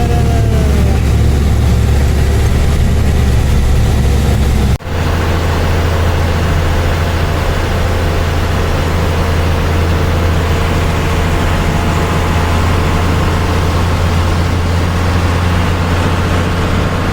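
Truck engine running under way with a steady low drone. About five seconds in the sound briefly drops out and comes back slightly changed in pitch.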